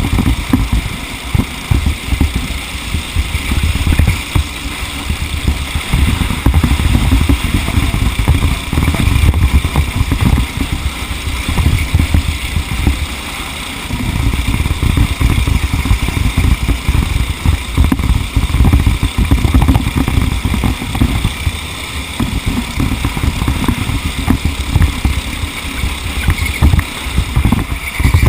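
Racing kart engine running at speed, heard onboard, with heavy wind buffeting on the microphone and no let-up.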